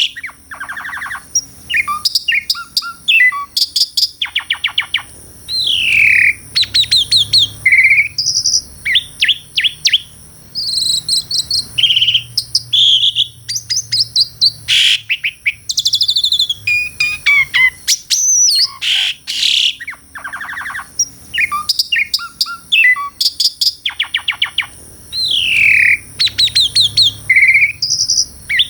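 Asian pied starling (jalak suren) singing loudly in varied phrases: whistled notes that slide down in pitch mixed with fast rattling clicks, with short pauses between phrases.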